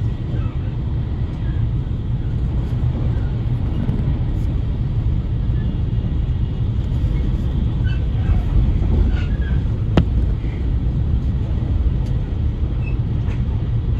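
Steady rumble of a train running along the track, heard from inside the passenger car, with a single sharp click about ten seconds in.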